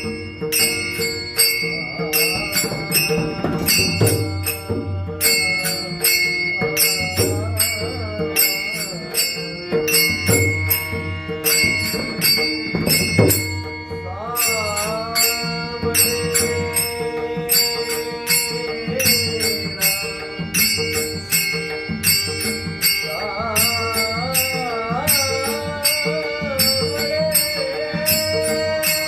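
Marathi Varkari bhajan music: a man sings drawn-out, ornamented devotional phrases over steady held drone tones, with a fast, regular jingle of small hand cymbals (taal) and low drum beats keeping the rhythm.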